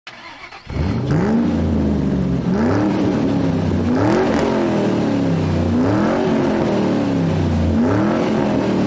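Car engine revved up and down over and over, its pitch rising and falling about every two seconds.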